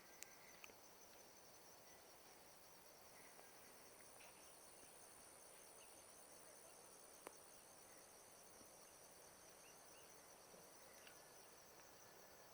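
Faint, steady high-pitched chirring of crickets and other insects, with a few faint chirps and a couple of sharp clicks.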